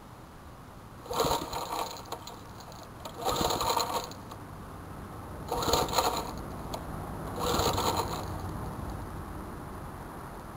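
Four pulls on the recoil starter rope of a Snapper garden tiller's 4 hp Briggs & Stratton single-cylinder engine, each a short whirring rasp of the engine turning over, about two seconds apart, on a cold start.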